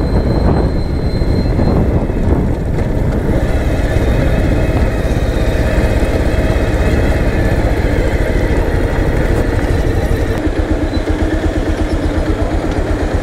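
Motorcycle engine running steadily on the move. About ten seconds in, the low engine note changes to a slower, even pulse.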